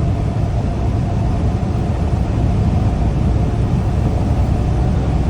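Steady low rumble of a tractor-trailer cab on the highway: engine and road noise from inside the truck while driving.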